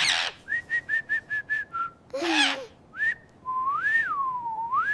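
A parrot whistling: a quick run of about six short high notes, a harsh squawk about two seconds in, then a long whistle sliding up and down in pitch.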